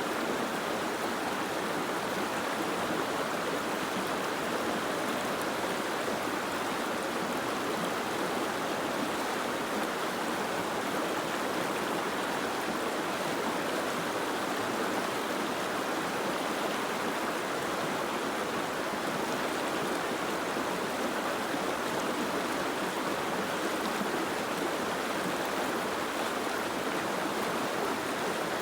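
Steady, unbroken rushing of water: an even hiss with no single drops or splashes standing out.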